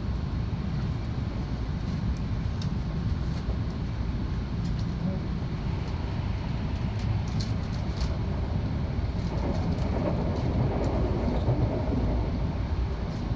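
Steady running noise of an E2 series Shinkansen heard from inside a passenger car: a low rumble of wheels on rail with a few faint clicks.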